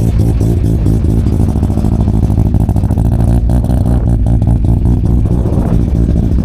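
Mazda rotary engine running loud and close, its exhaust giving a fast, steady pulsing note.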